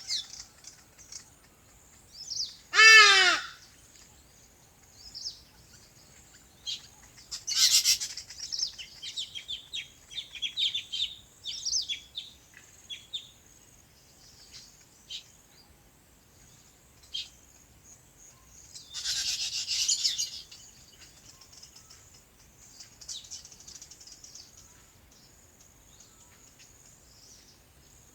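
Birds chirping and calling, with one loud harsh call about three seconds in, a run of quick chirps from about eight to thirteen seconds and a rushing burst of calls around twenty seconds. A faint steady high tone runs underneath.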